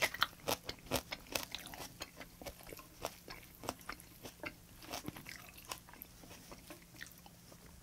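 A person chewing green onion kimchi close to a clip-on microphone: a quick run of wet, crunchy clicks that comes densest in the first second and a half, then slower and more spaced out.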